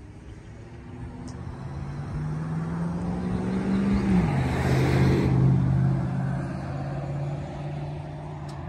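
Motor vehicle engine, its pitch climbing steadily and then dropping sharply about four seconds in, as at a gear change or when the throttle is let off. The sound swells to its loudest near the middle and fades after.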